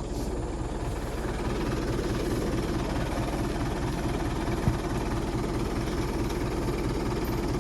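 A vehicle engine running steadily with an even low throb, and a single sharp knock about halfway through.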